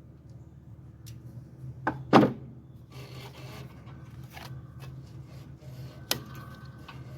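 Hand tools and metal parts being handled on a lawnmower engine while fitting an ignition coil: two sharp knocks about two seconds in, the second the loudest, then rubbing and scraping, and another sharp click about six seconds in, over a steady low hum.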